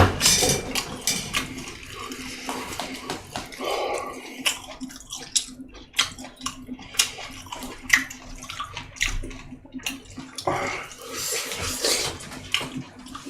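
Close-miked wet chewing and mouth noises of a person eating fermented skate with boiled pork, with many short sharp clicks throughout.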